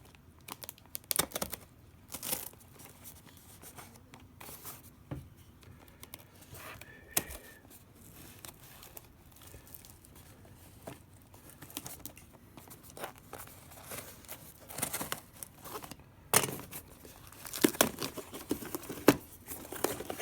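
A parcel being opened by hand: packaging torn and crinkled in irregular rustles and clicks, busier and louder in the last few seconds.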